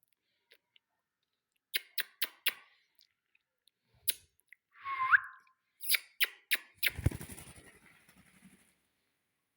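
Indian ringneck parrot giving one short rising whistle about halfway through, among runs of sharp clicks and taps. The loudest sound is a heavy knock a few seconds later with a rattling tail that fades over about a second and a half.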